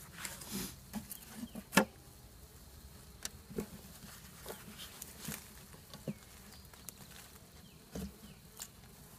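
Honeybees buzzing around an opened package of bees, with scattered clicks and knocks from the package and queen cage being handled; a sharp knock about two seconds in is the loudest sound.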